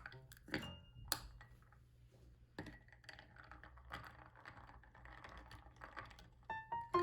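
A run of light clicks and taps, a few sharp ones in the first second and then a scatter of small ticks. Piano music comes back near the end.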